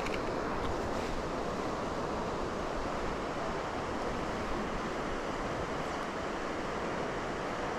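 Steady rushing of a waterfall and fast river water, an even roar that does not change.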